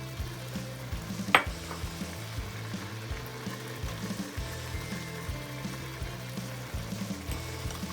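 Food sizzling as it fries in a pan while being stirred, with one sharp clink of a utensil against the pan about a second and a half in.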